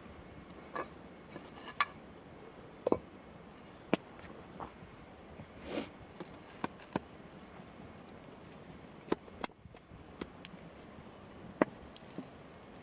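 Irregular sharp clicks and light knocks of handling, about a dozen spread out, with a short rustle just before the middle, over a steady background hiss.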